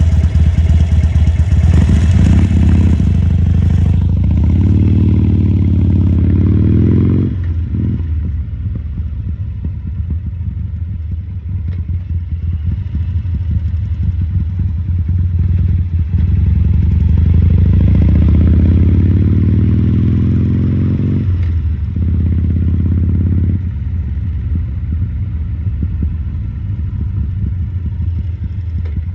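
Harley-Davidson Sportster 1200's air-cooled V-twin engine running with its low, uneven rumble. It rises in pitch twice as the throttle is opened, and each time drops off suddenly when the throttle is closed, then settles back to a lower steady run.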